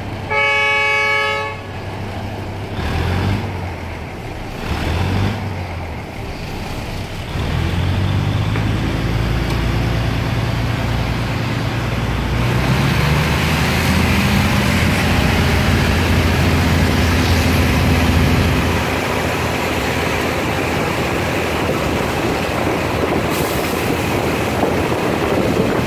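Train horn sounds one short blast, then a diesel engine's drone rises in pitch as the train gets under way, giving way to the steady rush and rattle of the moving carriage.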